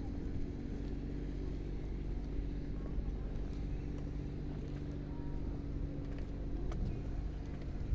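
A motor vehicle's engine running steadily nearby, giving an even low drone.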